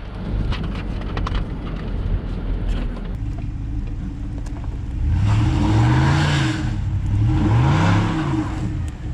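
A snow-plowing machine's engine runs steadily, then revs up and back down twice in the second half, with a rushing hiss swelling alongside each rev. A few light clicks come in the first couple of seconds.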